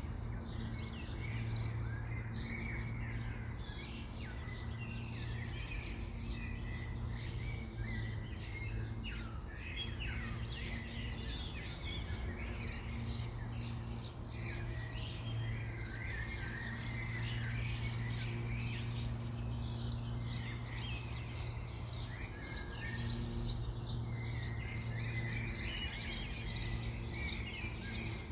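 Several birds chirping and singing in quick, overlapping calls, over a steady low hum.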